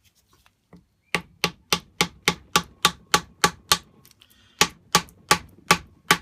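Light, sharp taps of a hard object, evenly spaced at about three or four a second, in two runs with a short pause between them.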